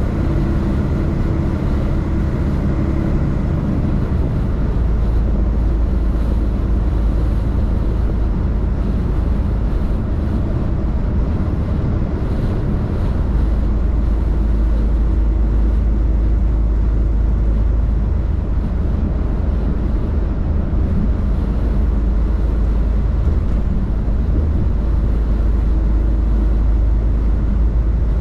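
A truck on the move: a steady low drone from the engine and rumble from the road, with no sudden changes.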